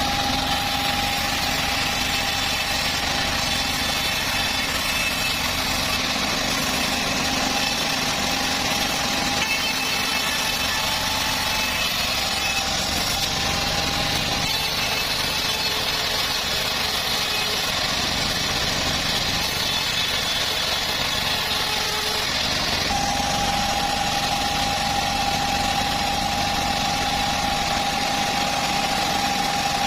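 Homemade engine-driven bandsaw sawmill running steadily, its engine and blade making a continuous drone with a steady high whine that grows stronger about three-quarters of the way through.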